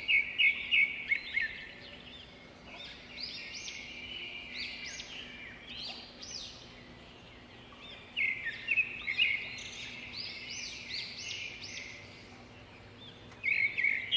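Small birds chirping in quick runs of short, high calls, loudest in bouts at the start, about eight seconds in, and near the end.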